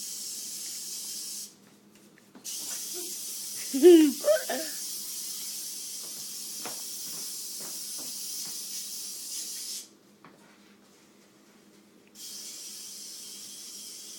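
Lysol aerosol disinfectant spray hissing in three long bursts: a short one at the start, a long one of about seven seconds, and another beginning near the end. A brief voice sound cuts in about four seconds in.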